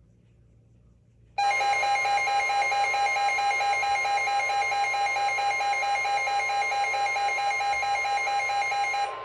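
Weather alert radio sounding its electronic alert alarm, a loud buzzing tone over a steady high tone, signalling a new weather alert. It starts suddenly about a second and a half in and cuts off just before the end.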